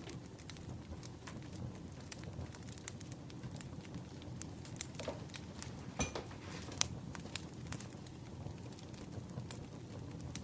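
Burning firewood crackling: irregular sharp pops and snaps over a steady low rumble, with a couple of louder snaps a little past the middle.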